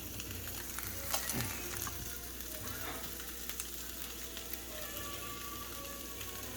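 Rice frying in hot oil in a pan: a steady sizzle with scattered crackles and pops.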